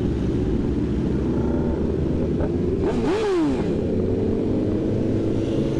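Superbike engines running as a group of motorcycles rides out, with one engine's pitch rising quickly and falling back about three seconds in.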